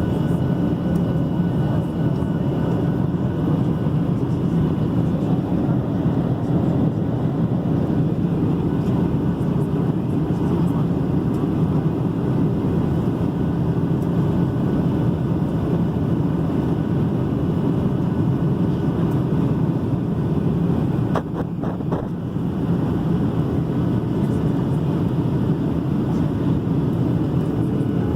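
Steady low rushing noise of an airliner in flight, heard inside the passenger cabin, with a couple of faint steady tones above it. About 21 seconds in it dips briefly with a few clicks.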